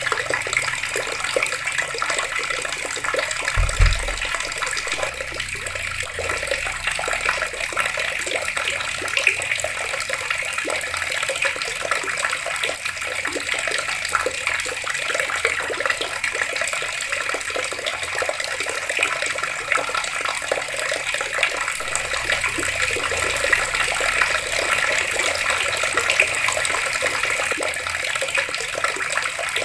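Water running steadily from taps and splashing, with a brief low thump a little under four seconds in.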